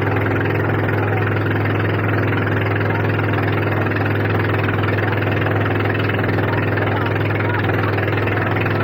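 Motorboat engine running at a steady speed, a constant low drone with no change in pitch.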